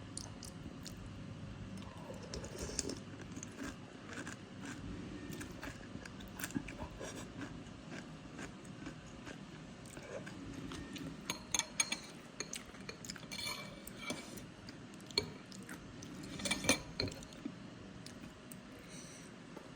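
Cutlery clinking and scraping against a bowl during eating, in scattered light clicks that come thicker in the second half.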